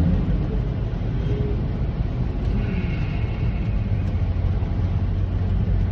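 Steady low rumble of a semi truck's engine and road noise while driving.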